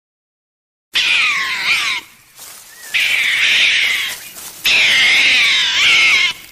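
An animal crying out loudly three times, each cry drawn out over about a second with a wavering pitch, starting about a second in.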